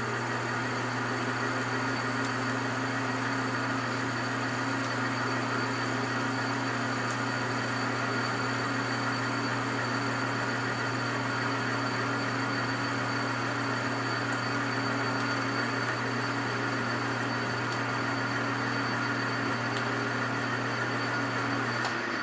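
Metal lathe running steadily, its motor and drive giving a constant hum with a hiss above it; the sound drops away right at the end.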